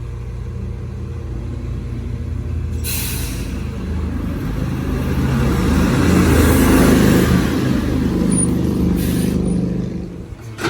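Crane Carrier CNG refuse truck's engine running, swelling as it revs midway. A sharp hiss of air, typical of air brakes, comes about three seconds in, with a shorter one near the end.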